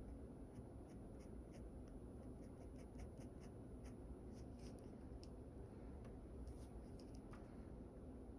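Drawing tool sketching on paper: short, quick scratchy strokes, a few a second, faint over a steady low hiss.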